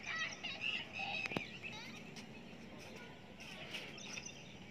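Birds chirping in short, quick calls, with one sharp pop about a second and a half in.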